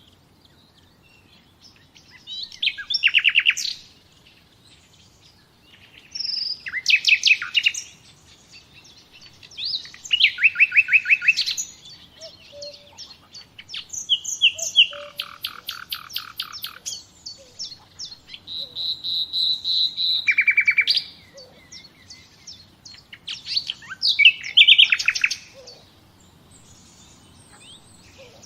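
A songbird singing short phrases of rapid repeated notes, about seven phrases, one every three to four seconds, with quiet pauses between them.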